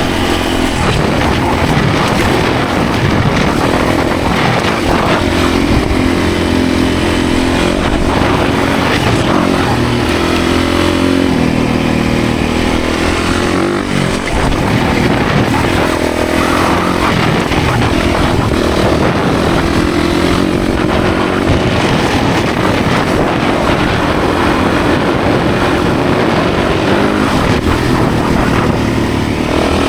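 Yamaha 450 dirt bike's four-stroke single-cylinder engine running hard as it is ridden, its revs rising and falling as the throttle opens and closes and gears change. There is a brief drop in revs about halfway through.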